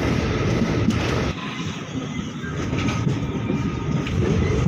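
Passenger train running at speed, heard from inside a sleeper coach by its open barred window: a steady rush of wheel and rail noise. The noise drops and changes abruptly about a second in.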